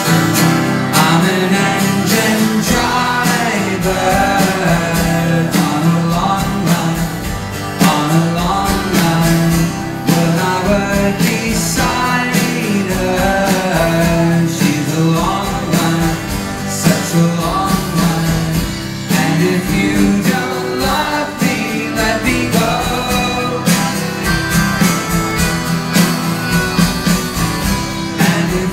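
A rock band playing live: strummed guitar, a steady bass line and a lead vocal singing over them.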